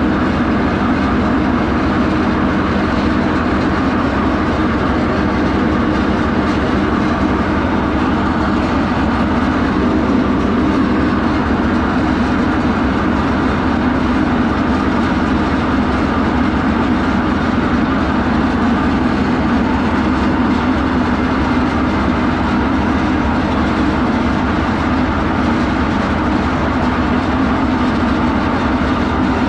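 Detroit diesel power unit of a hydraulic circle sawmill running steadily, with the mill engaged in gear.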